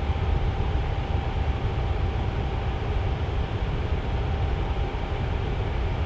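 Tower fan running steadily: a low, even rush of air with a faint steady hum from the motor.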